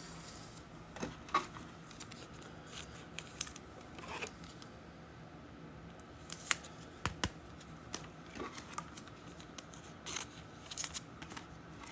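Quiet handling of trading cards and their packaging: scattered soft clicks, taps and scrapes, with a couple of sharper clicks about halfway through.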